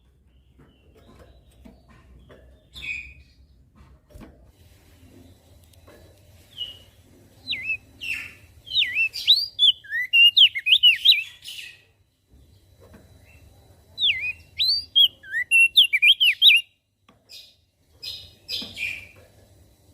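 Opior jambul (crested dark-eye) singing: quick runs of high, sliding twittering notes in two long bursts, one near the middle and one later, with scattered single chirps between them. A faint low hum sits underneath.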